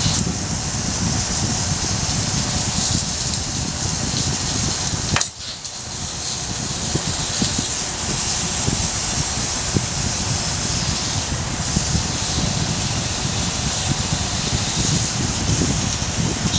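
Wood campfire burning with a steady rush and scattered faint crackles, over a fluttering low rumble of wind on the microphone. The sound drops out suddenly for a moment about five seconds in, then returns.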